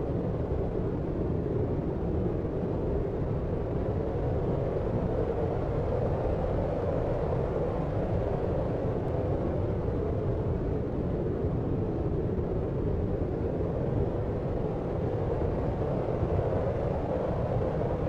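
Steady deep noise made for sleep: an even, unbroken rush weighted to the low end, with little treble and no separate events.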